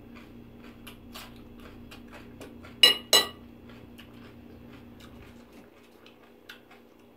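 Raw potato being chewed, a run of small crisp crunches, and about three seconds in two sharp ringing clinks of a metal fork set down on a ceramic plate.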